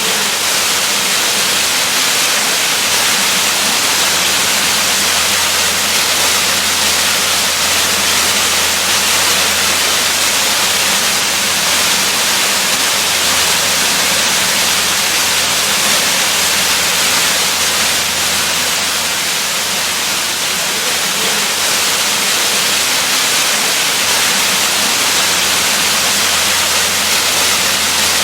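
Waterfall: a steady, unbroken rush of falling water, hissy and bright, with no change in level.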